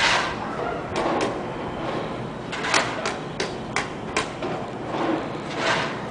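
A series of sharp knocks and clacks, with a few short scraping swishes between them.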